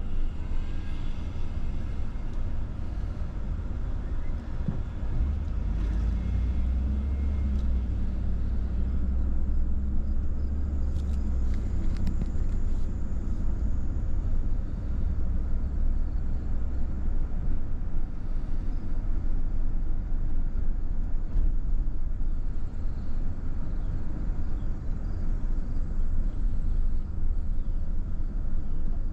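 A car driving along, a steady low rumble of engine and road noise that swells for a while in the first half.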